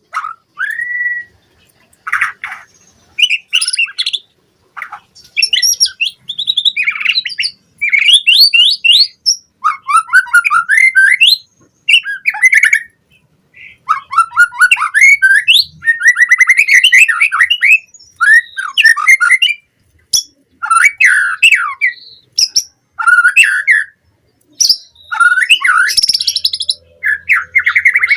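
White-rumped shama singing a fast, varied song of rapid whistled sweeps and trills, delivered in phrases of a second or two with short pauses between them.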